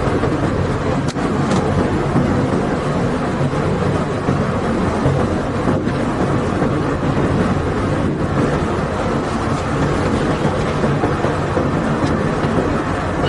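Bulk barge unloading machinery running, with crushed stone or sand flowing out of the hold: a steady, loud rumble with a low engine hum beneath it.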